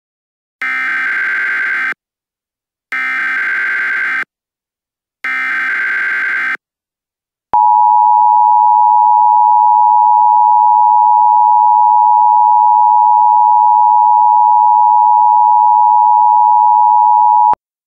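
Emergency Alert System tones opening a new alert. First come three short bursts of buzzing digital data, about a second apart: the SAME header that encodes the alert. Then the two-tone attention signal, a steady dual-pitched tone held for about ten seconds, stops abruptly.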